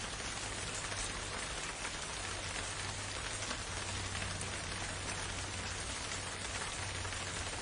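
Steady rain falling in a forest, an even hiss with many individual drops ticking through it.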